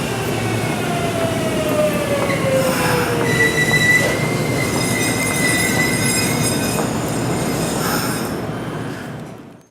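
Kintetsu electric train braking into the station: its motor whine slides down in pitch, then a high, steady brake squeal sets in. The sound fades out just before the end.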